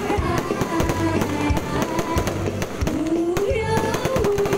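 Aerial fireworks bursting overhead in many quick bangs and crackles, mixed with loud music carrying a wavering melody.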